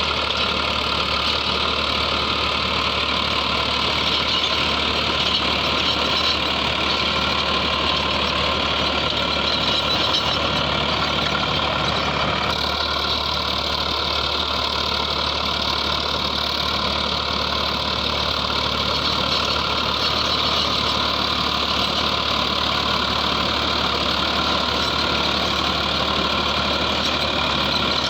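Farmtrac 60 PowerMaxx T20's 55 hp diesel engine running steadily under load while driving an 8-foot rotavator through the soil.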